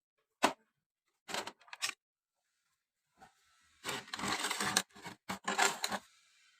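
A sharp click, then short bursts of clicking and clattering, with a longer run of clatter in the second half: mechanical handling noises.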